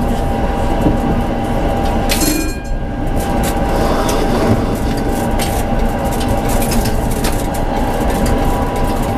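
Tram running along the track, heard from inside the driver's cab: a steady rolling rumble with a constant thin tone and scattered clicks, and a brief louder hiss about two seconds in.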